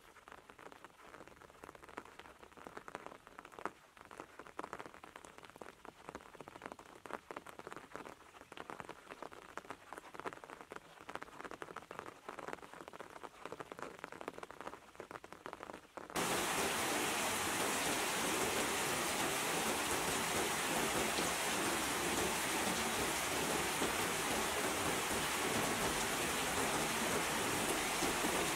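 Rain: a light, uneven patter of drops for about sixteen seconds, then a sudden change to much louder, steady heavy rain.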